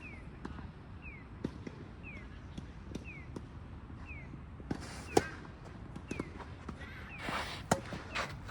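Tennis balls being struck and bouncing on a tennis court: a string of short, sharp knocks, the loudest about five seconds in. A faint, high falling chirp repeats about once a second behind them.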